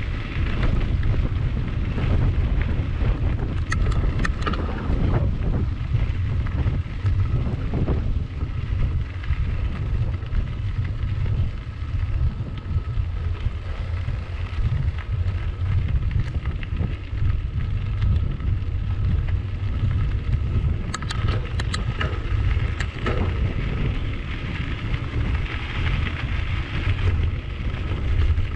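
Wind buffeting the microphone of a cyclist's camera while riding, a steady low rumble. Brief rattles and clicks come through about four seconds in and again a little past the twenty-second mark.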